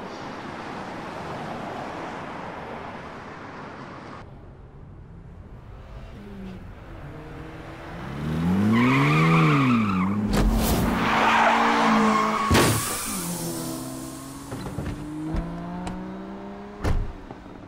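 A car engine revving up and dropping back, with tyre noise, and several sharp bangs or knocks in between.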